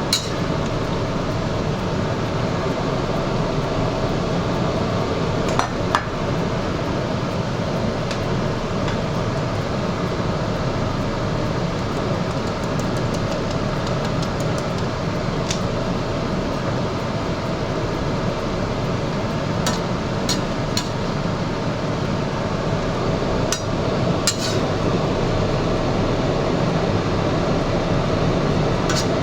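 Steady rushing kitchen noise from the stove under a simmering pot, with about ten sharp metal clinks of a utensil against the cooking pot scattered through.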